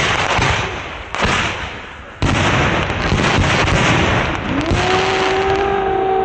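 Excalibur consumer mortar shells bursting: loud reports, each trailing off in a long rushing noise, with fresh bursts about one and two seconds in. A steady pitched tone comes in near the end.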